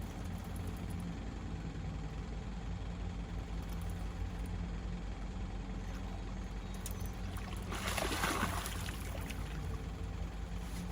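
Steady low hum with water noise around a boat, and a brief burst of splashing about eight seconds in as a hooked catfish is brought up at the side of the boat.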